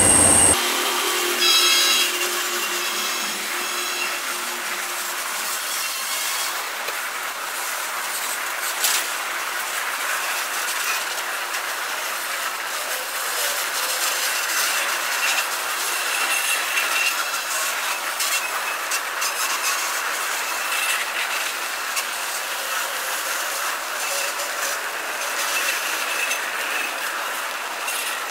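Loaded freight hopper cars rolling past: a steady rattling rumble of steel wheels on rail, with occasional clicks.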